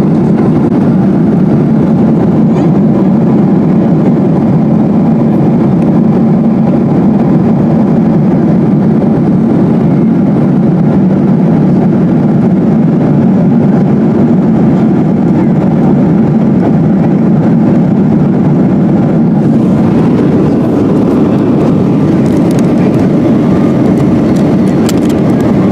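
Steady, even drone of a Boeing 777-200's passenger cabin, the low rumble of engines and airflow heard from inside.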